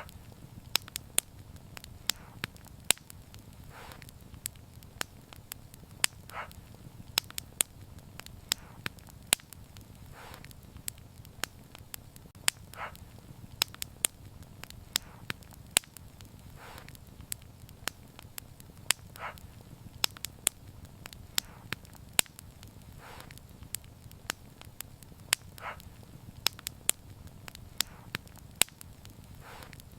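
Wood fire crackling, with many sharp irregular pops over a steady low rumble of the flames. A softer, longer hiss comes back every two to four seconds in a repeating pattern.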